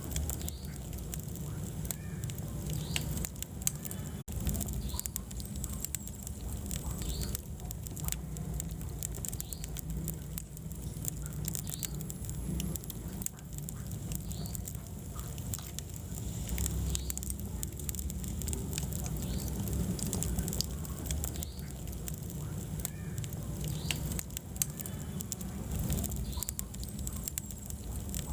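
Wood fire burning in a fireplace: a low steady rumble of flames with frequent small crackles and pops scattered throughout.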